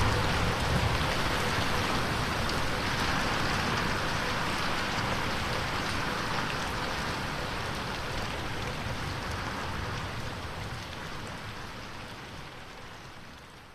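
Steady rain on a window, with fine drop taps, fading out over the last few seconds.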